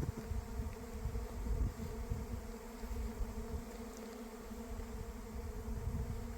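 A flying swarm of honey bees droning all around: a steady, dense buzzing hum of thousands of bees on the move.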